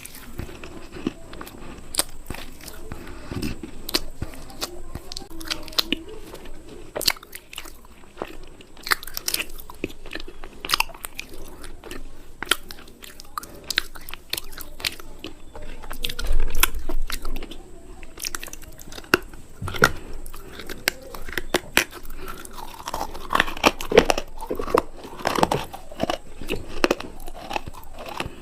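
Close-up biting and chewing of something hard and crunchy, with many sharp crisp snaps between softer chewing, busiest near the end.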